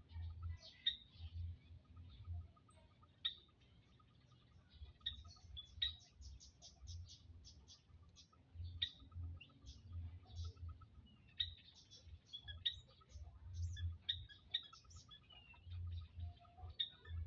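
Quail chirping: short, high calls scattered throughout, with a quick run of rapid chirps about six to seven seconds in.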